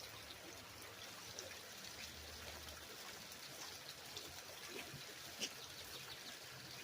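Faint, steady trickle of running water, with scattered light clicks and one sharper tap about five and a half seconds in.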